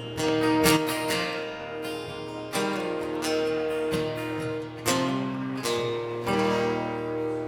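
Two acoustic guitars playing the closing chords of a song: a handful of strummed chords, each left to ring, struck about half a second in, near three seconds, near five and again past six seconds.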